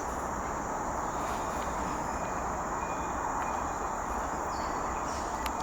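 Steady outdoor ambience: an even rushing noise with a thin, continuous high-pitched insect trill, like crickets, running through it.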